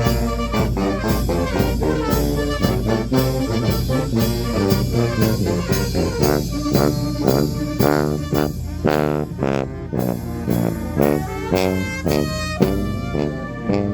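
Brass band playing a lively tune, with trumpets and trombones over a steady, regular beat of drums.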